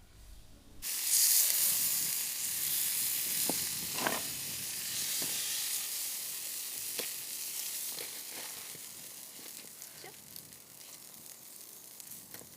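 Meat sizzling on a grill over a fire. The sizzle starts abruptly about a second in and slowly fades, with scattered pops and crackles.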